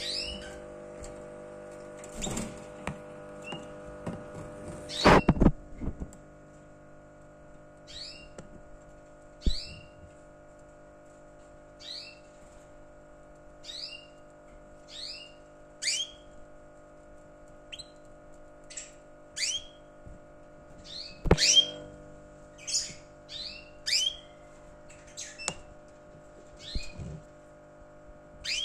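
Small caged bird's short chirps, each falling quickly in pitch, repeating about once a second, over a steady hum. A few loud knocks about five seconds in and again after twenty seconds.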